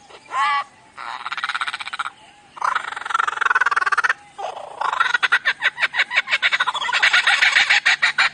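A mimicking songbird calling: a short wavering note, then three fast rattling trills, the last one long.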